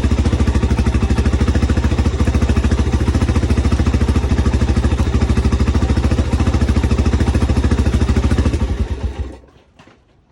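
Honda TRX250X ATV's freshly rebuilt single-cylinder four-stroke engine running steadily on its first start after the rebuild, then shut off about nine seconds in, dying away quickly.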